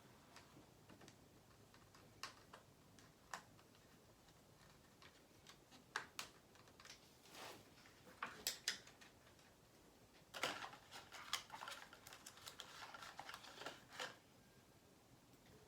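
Faint, irregular clicks and taps of small hard parts and tools being handled while an engine is fitted into a model helicopter frame, with a quick run of clicks about two-thirds of the way in.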